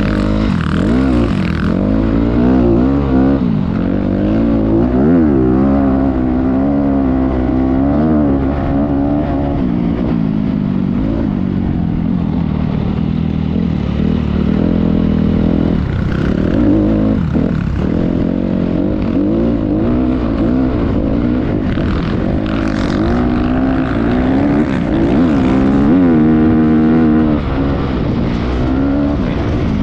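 Motocross bike engine running under load, its pitch rising and falling again and again as the throttle opens and closes.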